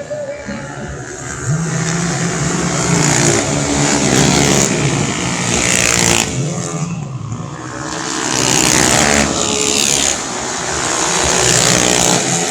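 Racing 125cc automatic scooter engines running at high revs as bikes pass, the engine note rising and falling in several waves.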